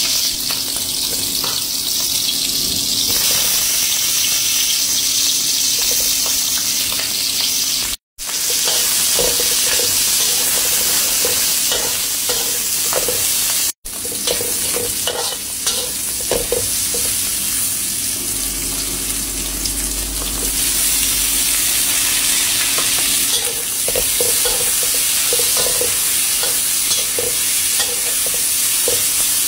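Diced pork sizzling in hot oil in a frying pan, with a spatula stirring and scraping the pan bottom; onions and garlic go in partway through. The sound cuts out briefly twice.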